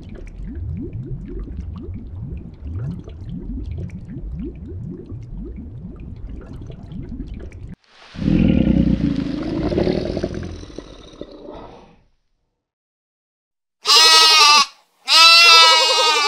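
A low rumble with repeated rising sweeps, then a louder, rough noisy sound lasting a few seconds. After a short silence a sheep bleats twice near the end, a short call and then a long wavering one.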